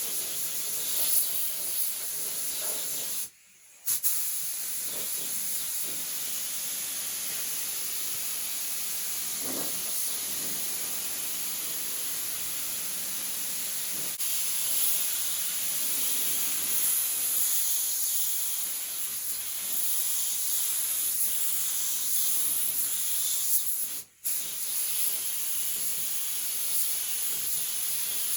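Compressed-air spray gun hissing steadily as primer is sprayed onto a truck bed, with a short break about three seconds in and another brief one near the end.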